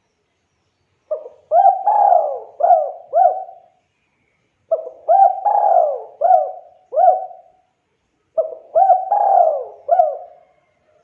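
Spotted dove (tekukur) cooing: three phrases of about five rolling coo notes each, repeated every three and a half seconds with silence between.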